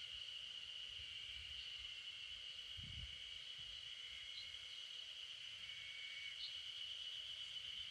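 Faint steady high-pitched insect drone, with a few short faint chirps over it and a brief low rumble about three seconds in.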